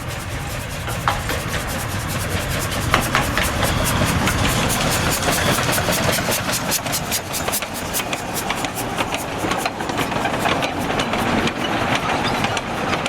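Train running, a low rumble under a rhythmic clatter of quick regular beats that picks up about three seconds in and thins out near the end.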